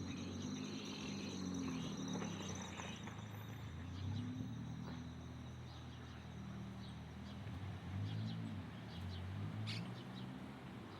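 Birds giving short, scattered chirps over a steady high insect drone, with a low wavering hum underneath.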